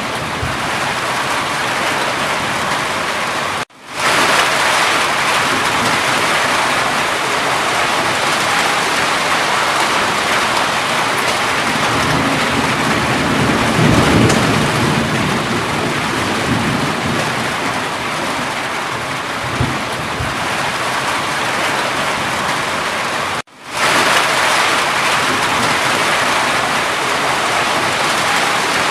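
Steady heavy rain. A low rumble, like distant thunder, swells about halfway through. The whole sound cuts out for a split second twice, once near the start and once near the end, at the joins of a looped recording.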